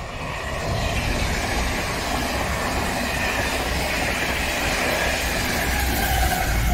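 Irish Rail locomotive-hauled intercity passenger train passing close by at speed: a steady rush of coaches rolling over the rails, with a gently falling whine. A deeper rumble grows toward the end as the diesel locomotive at the rear comes level.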